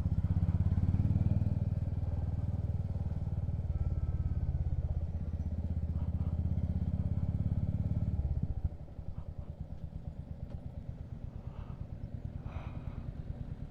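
Motorcycle engine idling with a steady low pulsing note, which drops noticeably in level about eight and a half seconds in.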